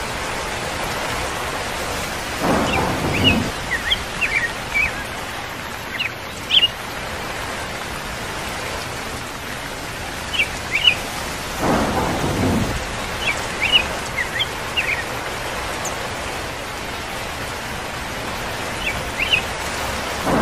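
Steady rain with two low rolls of thunder, about two and a half and eleven and a half seconds in, and short bird chirps scattered in small clusters over the rain.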